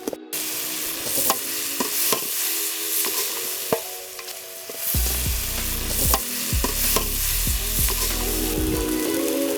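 Chicken pieces sizzling as they fry in a pan while being stirred, with repeated knocks and scrapes of the spoon against the pan. A low rumble joins in from about halfway until near the end.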